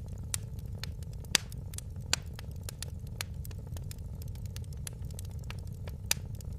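Wood fire crackling: a steady low rumble of the flames with irregular sharp pops and snaps, the loudest a little over a second in and again about two seconds in.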